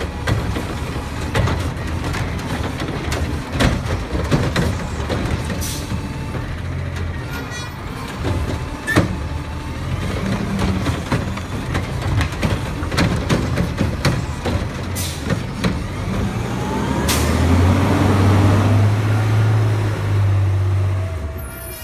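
Garbage truck's diesel engine running under many metal clanks and knocks, with a few short air hisses. About three-quarters of the way through, the engine revs up and holds for several seconds, then drops back just before the end.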